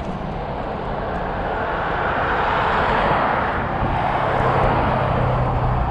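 A motor vehicle going by, its engine and tyre noise swelling to a peak around the middle and easing off, with a low engine hum in the second half.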